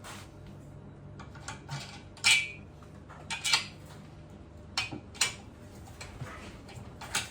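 Metal tools and engine parts clinking and clattering as they are handled and set down: a run of sharp metallic clinks, some ringing briefly, the loudest about two seconds in, over a low steady hum.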